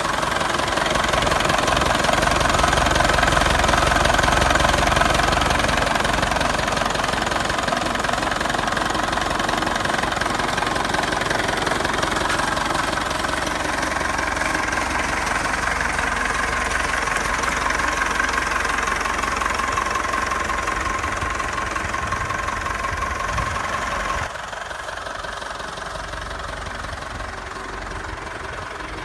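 Vintage Nuffield tractor engines running steadily. The sound drops suddenly quieter about 24 seconds in.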